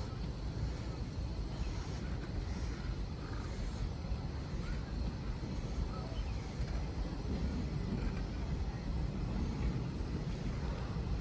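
Steady low rumble from an Indian Railways passenger train.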